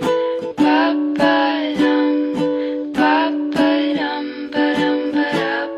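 Strummed acoustic string instrument playing sustained chords in a steady rhythm, a little under two strums a second. It is the instrumental close of a song, with no singing.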